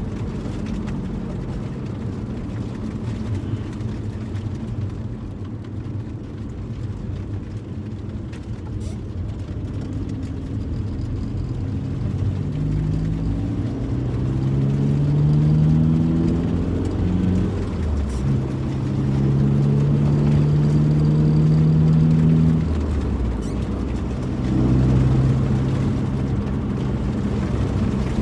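Volkswagen car being driven: road and tyre rumble with the engine note climbing as it accelerates, breaking at gear changes, holding steady for a few seconds, then dropping and climbing again near the end.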